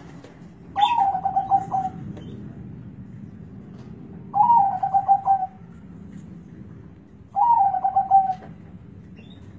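Zebra dove (perkutut) cooing: three short rippling phrases, about three seconds apart.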